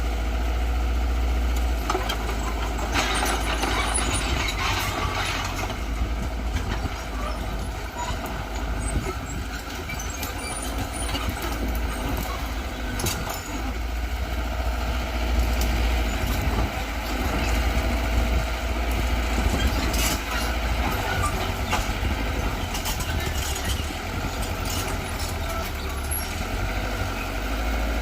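Diesel engine of a Mitsubishi BD2G bulldozer running under load with a steady low rumble, with short bursts of hiss and clatter a few seconds in and again later.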